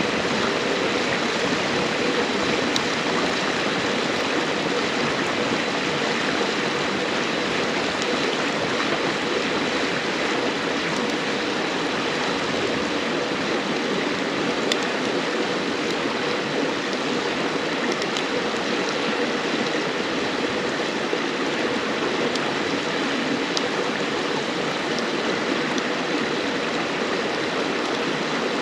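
Steady rush of a river's flowing water, with a few faint sharp crackles now and then from burning firewood.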